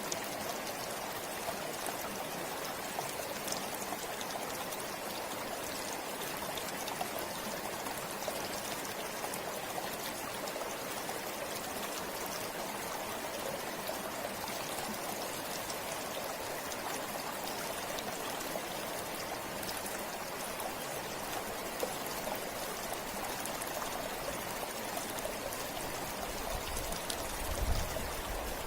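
A forest river flowing steadily, water rushing and splashing over stones with fine trickling detail. Near the end a brief low rumble rises under the water sound.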